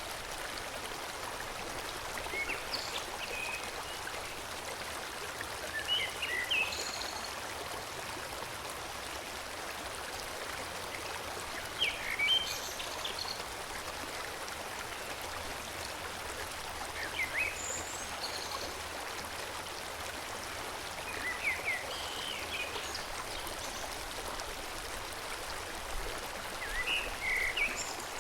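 A stream flowing steadily over rocks, with a songbird's short chirping phrases coming every few seconds above it.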